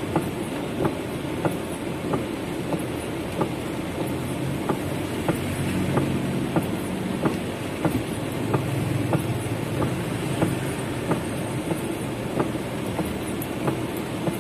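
Heavy rain drumming on a car's roof and windows, heard from inside the cabin as a steady wash, with a sharp tick about every half second.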